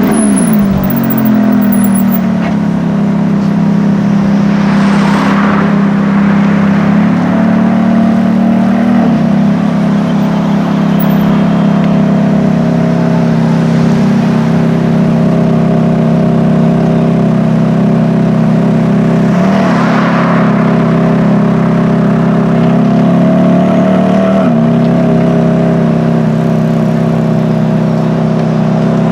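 A car engine running steadily at low revs close by, its pitch shifting slightly a few times. Other cars pass about 5 and 20 seconds in.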